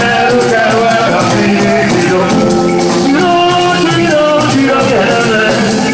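Live band music with a sung or played melody over a steady shaker rhythm, in a Latin style.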